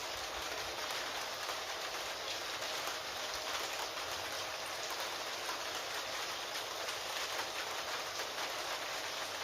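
Steady rain: an even hiss of falling rain flecked with many small, quick ticks of drops striking a surface.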